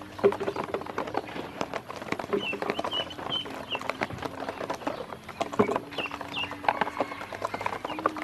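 Ducklings feeding, their bills making a rapid, irregular clicking and tapping, with a few short high peeps about two and a half and six seconds in.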